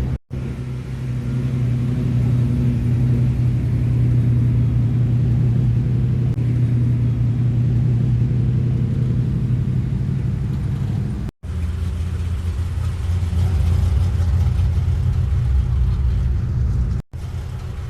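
A car engine running with a low, steady drone. It cuts out abruptly for a split second three times, where the recording is edited.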